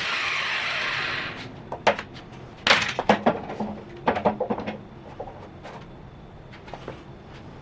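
Craftsman 4.5-inch angle grinder spinning down after being switched off, its falling whine dying away over about a second and a half. Then comes a run of sharp knocks and clicks.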